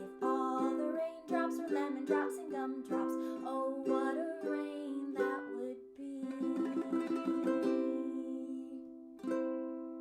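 Close of a children's song: a woman singing the last slow phrase over strummed string accompaniment. It ends on a final strummed chord, struck near the end, that rings out and fades.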